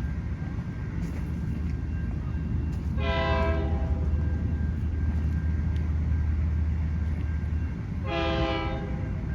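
Train horn sounding two short blasts about five seconds apart, each a chord of several tones, over the steady low rumble of a passing train.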